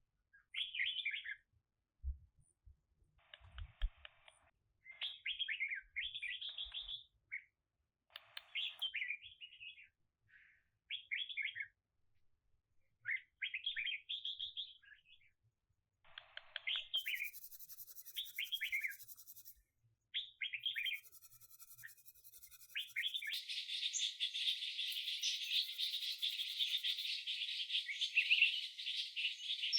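A songbird singing short, quick chirping phrases, repeated with brief pauses. A steady high hiss sets in about two-thirds of the way through and continues under the song.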